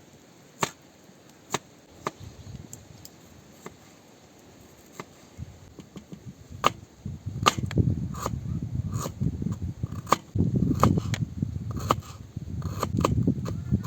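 Sharp knocks and clicks: a few spaced ones at first, then many more from about halfway on, over a low rustling.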